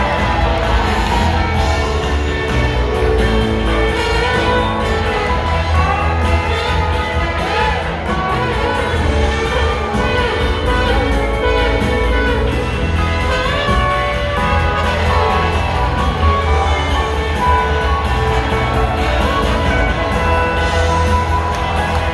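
Live rock band playing an instrumental passage: lead lines with bending notes over steady bass and drums, no singing.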